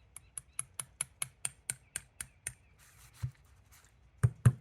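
Small metal-on-metal clicks, about four a second and about a dozen in all, as a cotter pin is worked through the selector quadrant of a Triumph 500 gearbox. A few heavier taps come near the end as the pin goes home.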